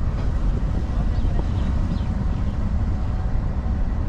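Green Line Express passenger train moving off slowly from the station, heard from alongside the coach: a steady low rumble.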